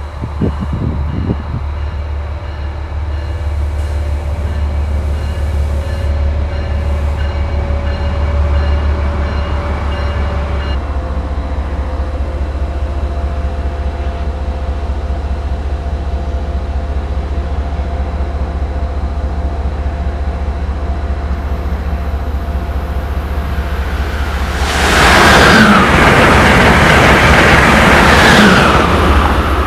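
Diesel locomotive of an MBTA commuter train running with a steady low rumble as it draws up to the station and stands. About 25 seconds in, an Amtrak Acela high-speed trainset passes at speed: a loud rush of noise lasting about four seconds.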